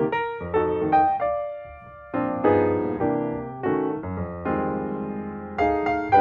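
Background music: gentle piano or electric-piano chords struck every half second or so, with one held chord left to ring out about two seconds in.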